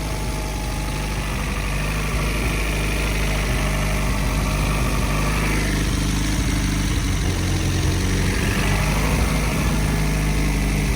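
Turbocharged Acura Integra engine running steadily at an even pitch while cruising, with a hiss that swells and fades twice.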